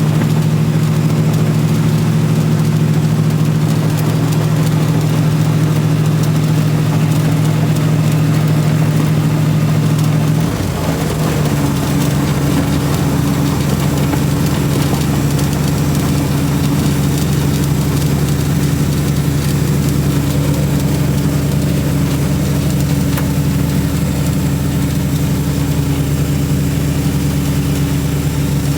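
Twin Saab engines of a Mark III Astra van idling steadily, the engine note shifting to a slightly different pitch about ten seconds in.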